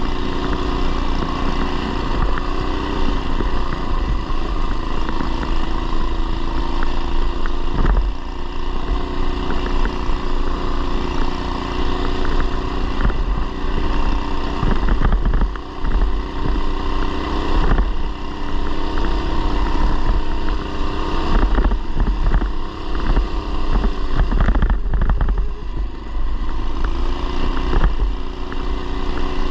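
A mini bike's 212cc single-cylinder engine running on the move through a short header-pipe exhaust. The engine pitch rises and falls with the throttle, dropping off briefly a few times as the throttle is let off.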